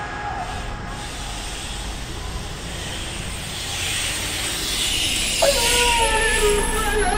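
Steady rushing hiss of outdoor ambience that swells a few seconds in. Near the end a melodic line sliding in pitch comes in over it.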